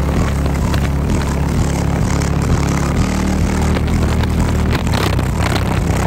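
Loud, steady low bass from a car audio system's subwoofers, holding a deep droning note with little change.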